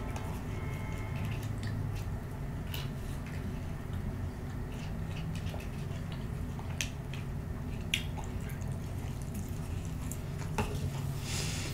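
Close-miked chewing of a chicken nugget: soft wet mouth clicks every second or two over a steady low hum. The foil lid of a dipping-sauce cup is peeled open partway through.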